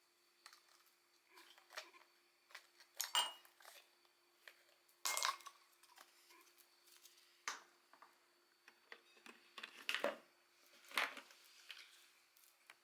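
Scattered light clinks, taps and knocks of small hard objects being handled, with the sharpest strikes about three, five, seven and a half, ten and eleven seconds in.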